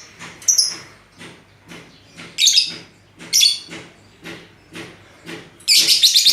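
Lovebirds chirping: a steady run of short, high-pitched chirps about every half second, broken by louder, longer bursts of chirping, the loudest near the end.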